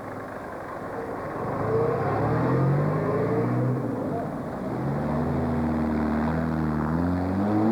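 Classic car engine pulling away and accelerating, its note rising and stepping up in pitch and getting louder from about a second and a half in.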